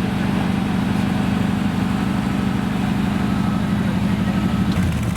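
Engine of a custom Ford pickup truck running steadily with a low, even drone, dropping away near the end.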